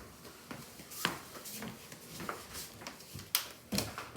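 Plastic DVD case being handled: scattered light clicks and rustles, a few sharper taps in the second half.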